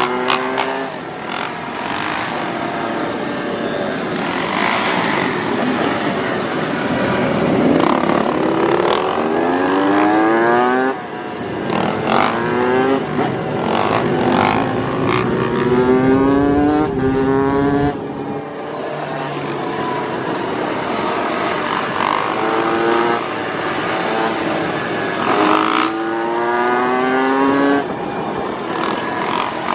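Motorcycle engine accelerating hard through the gears, its pitch climbing and dropping back at each shift, over and over.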